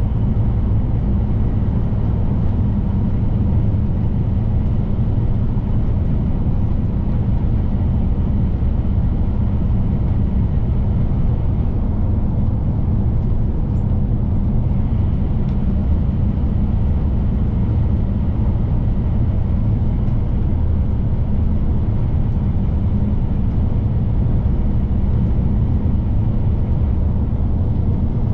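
Scania P310 truck's diesel engine and tyre and road noise, a steady low drone while driving at an even speed with no gear changes or other events.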